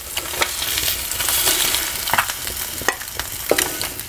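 Masala-coated boiled-egg halves sizzling in hot oil in a shallow pan. The sizzle swells about a second in, with sharp clicks and scrapes as a wooden spatula lifts the eggs out.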